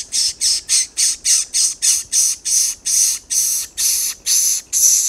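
A bird giving a long run of harsh, rasping squawks, about three a second, spacing out slightly toward the end.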